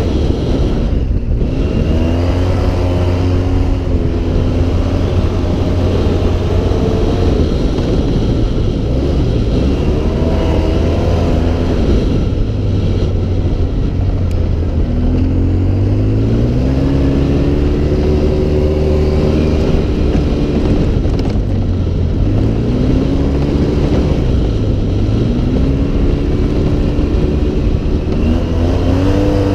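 Off-road vehicle's engine running under way, its pitch climbing and dropping back again and again as the throttle is worked, over a steady rushing noise.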